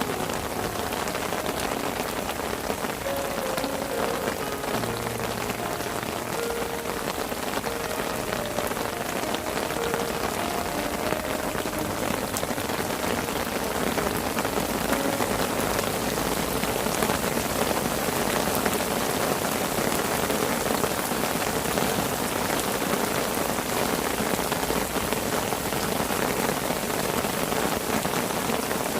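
Rain falling on a fishing parasol, heard from underneath: a dense, steady patter of drops on the canopy, growing a little heavier about halfway through.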